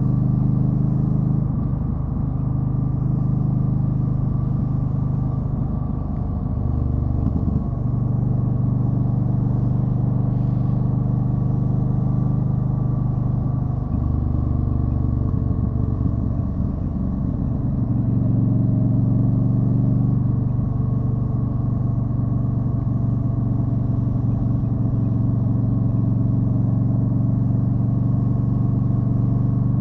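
Yamaha Stryker's V-twin engine running steadily while riding, a low even engine note. The note changes briefly about a quarter of the way in and again around halfway, then runs a little louder.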